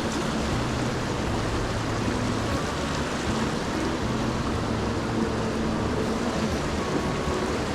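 Mountain stream water rushing steadily over rocks, an even, unbroken wash of noise.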